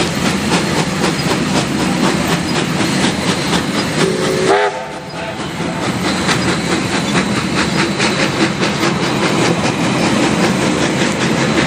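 Ab class steam locomotive Ab608 running, heard close up from the footplate: a loud steady clatter with a fast regular rhythm of exhaust beats and rattles. A brief pitched note sounds about four seconds in.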